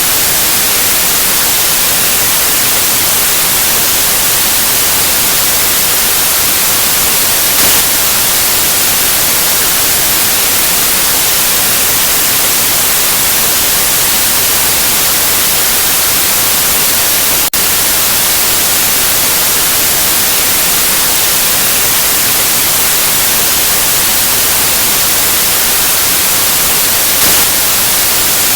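Steady white noise: an even, unbroken hiss, brightest in the high frequencies, with a split-second dropout about two-thirds of the way through.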